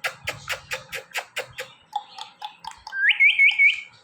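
A rapid run of dry clicks, about six a second, that stops just under two seconds in, then an Indian ringneck parrot giving four quick, rising whistled chirps in a row about three seconds in.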